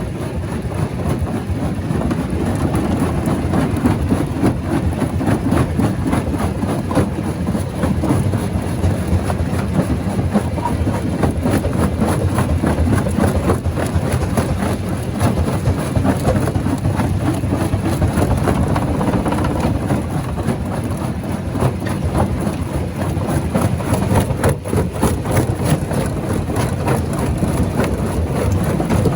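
Large rock crusher running: a steady heavy machine drone under constant crunching and cracking of stone being broken.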